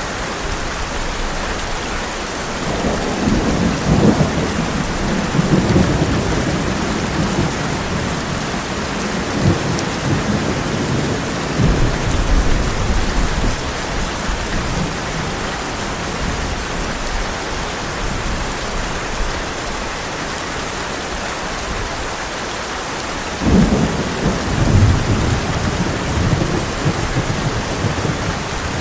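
Heavy rain falling steadily on a tin roof, with rolls of thunder rumbling a few seconds in and again around ten seconds. A sharper thunderclap starts suddenly near the end and rumbles on.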